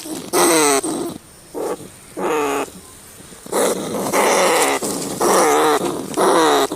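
Rats calling: a series of short, harsh squealing growls, several sliding down in pitch, with a quieter pause in the middle.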